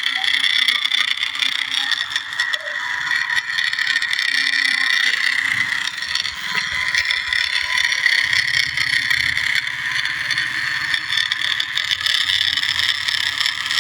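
Remote-control New Holland toy tractor driving, its small electric motor and high-reduction gearbox giving a steady whine. A lower hum joins about eight seconds in.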